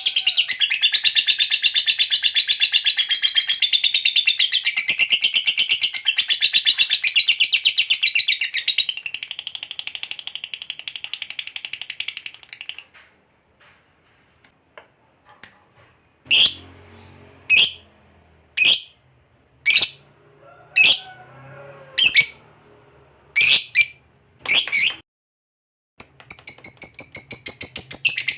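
Lovebird's long 'ngekek' chatter, a fast unbroken run of shrill high chirps, which stops about twelve seconds in. After a short hush come about eight single sharp chirps, roughly one a second. The rapid chatter starts again near the end.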